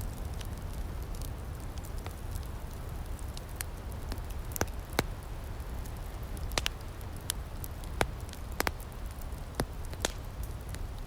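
Outdoor wood fire crackling: a steady low rumble and hiss with irregular sharp pops, a dozen or so in the span.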